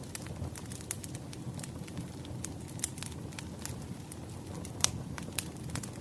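Firewood burning, crackling with irregular sharp pops and snaps over a low steady rumble. A few louder pops come in the second half.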